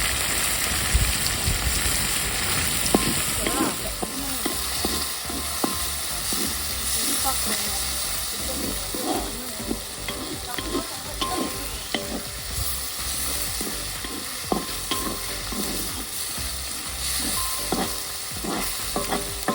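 Onions and tomatoes sizzling in hot oil in a large kadai, with a steady frying hiss, while a ladle stirs them and scrapes and knocks against the pan many times.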